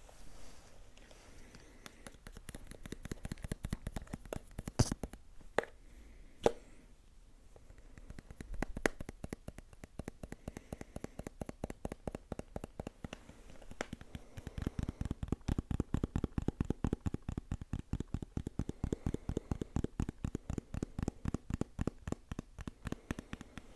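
ASMR tapping and scratching close to the microphone: a rapid, even run of short taps at several a second, with a few sharper clicks about five and six and a half seconds in. From about fourteen seconds the taps turn fuller and deeper.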